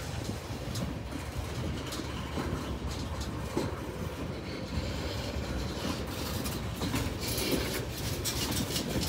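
Freight train tank cars rolling past: a steady rumble of steel wheels on rail, with a few scattered clicks and a brighter hiss in the last few seconds.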